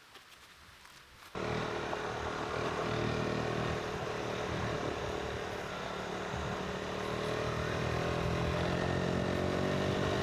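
KTM 390 Adventure's single-cylinder engine running, coming in suddenly about a second in, its pitch rising slowly as the bike gets under way.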